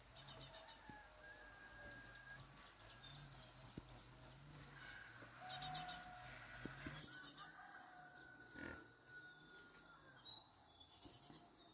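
Small birds chirping and trilling: several short, rapid high trills and a quick run of about eight chirps, over a faint low wavering hum.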